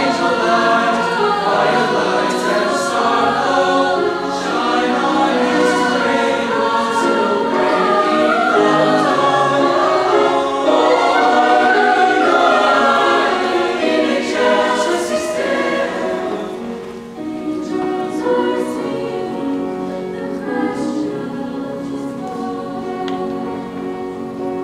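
A choir singing, many voices together; it softens about two-thirds of the way through and tapers off near the end.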